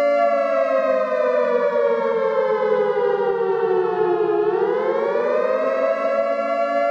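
Emergency siren sounding as the alarm for an earthquake evacuation drill. It holds a steady tone, slides slowly down in pitch for about four seconds, then rises back up and holds again.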